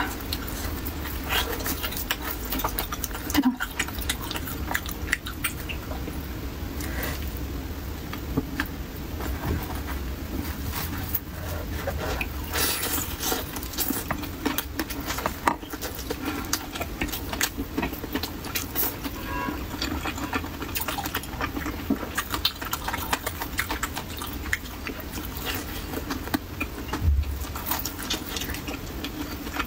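Close-up eating sounds of someone chewing a soft, oily pan-fried pumpkin cake with red bean paste filling. The chewing comes with wet mouth smacks and many small irregular clicks, over a steady low hum.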